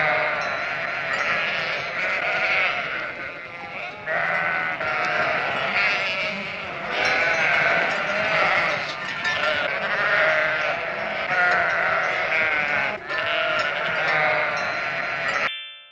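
A flock of sheep bleating, many calls overlapping one another without a break, cutting off abruptly near the end.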